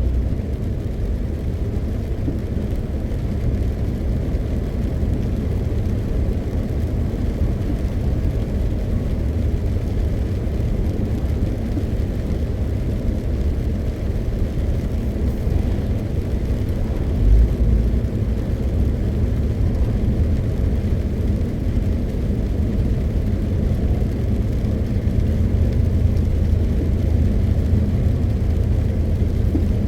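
MAN TGX 520 truck on the move: a steady low rumble of its 12.4-litre straight-six diesel and road noise, with a brief low thump a little past halfway.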